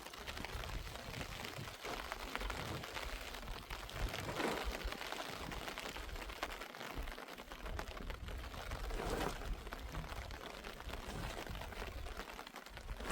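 Steady rain falling, an even hiss of drops with a low rumble underneath and a couple of brief swells.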